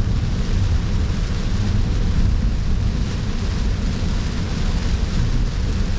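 Steady road and tyre noise from a 2025 Cybertruck driving along, a deep constant rumble with a hiss on top and no engine sound from the electric dual-motor drive.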